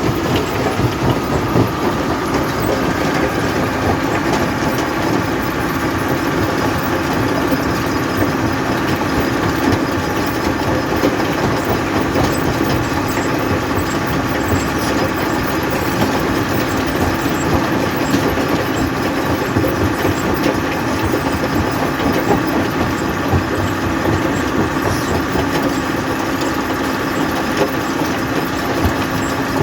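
Jaw crusher running steadily as it crushes stone: a continuous machine hum with dense, irregular knocking.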